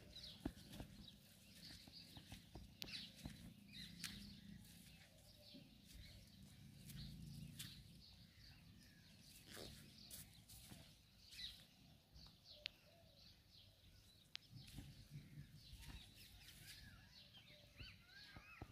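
Faint bird chirps and calls scattered throughout, with occasional clicks and rustling close by.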